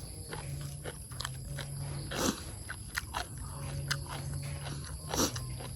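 A person chewing and eating close to the microphone, with scattered small clicks and two louder mouth-noise bursts, about two seconds in and again near the end.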